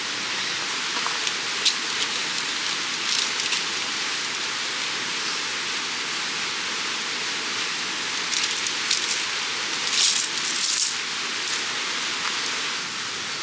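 Mountain stream running: a steady rushing of water, with a few scattered light clicks and ticks over it, a small cluster about ten seconds in.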